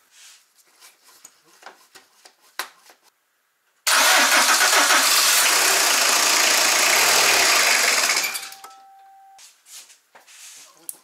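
Citroën Berlingo's diesel engine cranking on the starter for about four seconds without firing, then stopping; a short electronic beep follows. It is a no-start that the owner traces to air in the fuel system.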